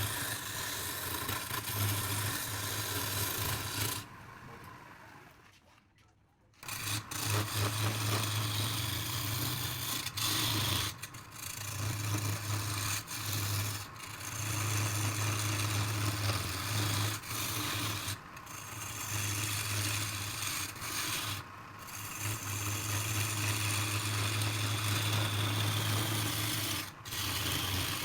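A wood lathe running with a steady low hum while a tool rubs and scrapes against the spinning wood. The scraping stops and starts again every few seconds, and nearly everything drops away for about two seconds a few seconds in.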